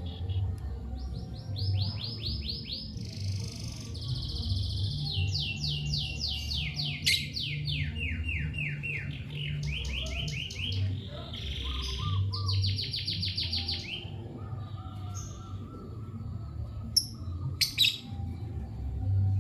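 A small pet bird singing in a long run of fast trills. Each trill repeats one high chirp many times a second, and the runs change pitch from one to the next. A steady low hum runs underneath.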